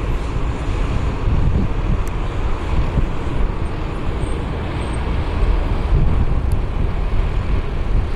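Steady rumble of jet airliner engines, mixed with wind buffeting the microphone.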